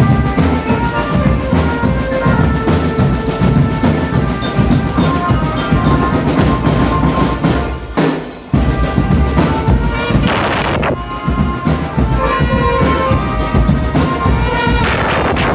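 Drum band playing: marching drums beat a dense, steady rhythm under a melody played by wind instruments. The music stops for a moment about eight seconds in, then starts again.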